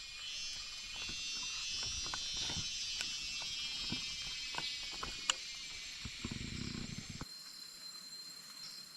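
Dense, shrill chorus of insects in the forest, with scattered faint clicks and a brief low rumble. About seven seconds in the sound changes abruptly to a thinner, steady single-pitched insect trill.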